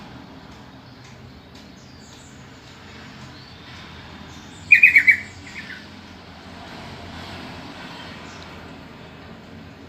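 Sooty-headed bulbul (trucukan) giving one short call about halfway through, a quick run of repeated notes, over a steady background hiss with faint chirps from other birds.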